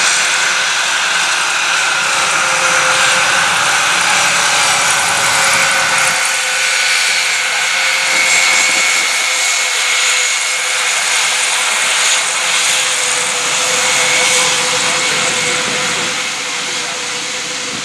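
Engines of a large aircraft in a display pass, a loud steady roar with a held whine on top, beginning to fade away near the end.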